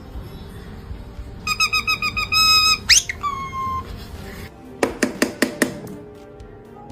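Parrot whistling: a quick run of pulsing high notes, then a fast rising whistle and a short falling note, followed by a few sharp clicks.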